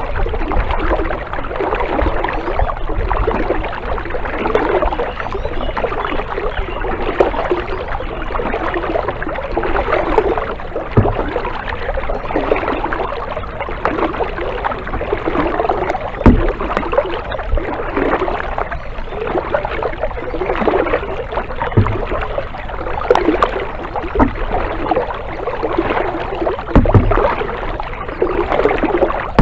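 Kayak paddle strokes: the blades dip and pull through the water in a steady rhythm, each stroke a swell of splashing and dripping water. A few short low knocks come now and then; the loudest is about halfway through.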